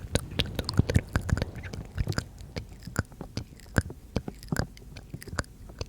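ASMR mouth sounds close to the microphone: wet clicks and smacks of the lips and tongue in an irregular run, thick in the first couple of seconds and more spaced out after.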